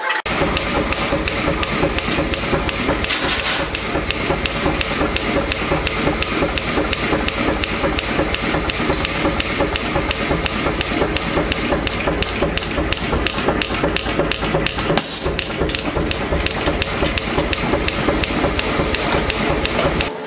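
Power hammer striking hot iron in a fast, even rhythm of many blows a second, over a steady running hum, with a brief hiss about three seconds in and again about fifteen seconds in.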